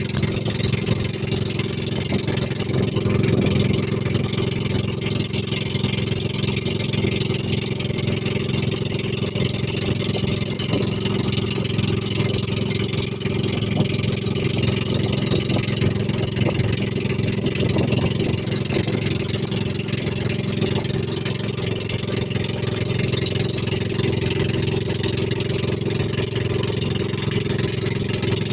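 Boat engine running steadily, a constant even drone with no change in speed.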